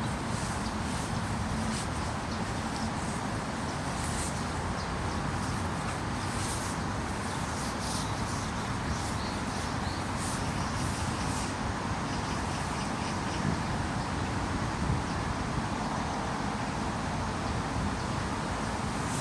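Steady rushing noise of heavy rain falling in woodland, even and unbroken.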